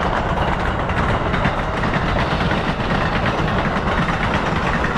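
A train passing, its wheels clickety-clacking on the rails in a steady, loud rumble.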